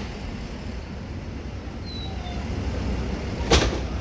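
Street traffic ambience with a steady low rumble, broken once about three and a half seconds in by a short, sharp thump, the loudest sound.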